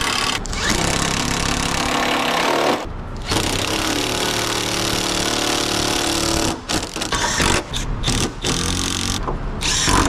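Power tool running in two long runs, then several short start-stop bursts near the end.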